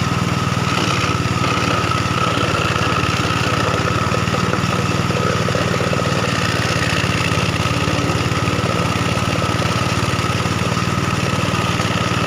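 Engine-driven wood crusher (sawdust machine) running steadily: a constant engine drone with a steady high whine over it.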